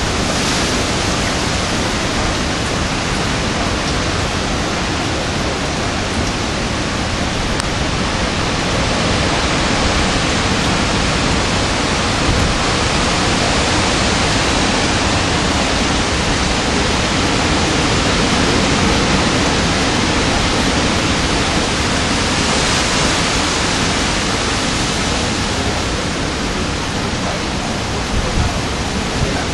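Hurricane Sandy's wind and rain: a loud, steady rush of noise that swells and eases slightly.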